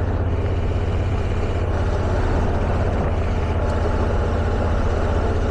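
Motorcycle engine running steadily at cruising speed, with a constant rush of wind and road noise.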